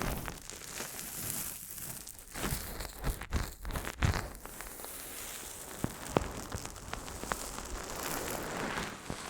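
Continuous crinkling and rustling with scattered sharp clicks.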